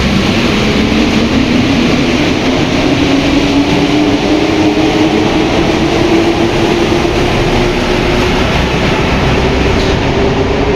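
Alstom NS-93 rubber-tyred metro train running, heard from inside the car: a steady rumble, with a motor whine that climbs slowly in pitch as the train gathers speed.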